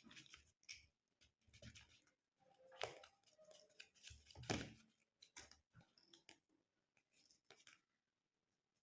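Faint crinkling and tapping of folded colour paper being handled, in scattered short bits.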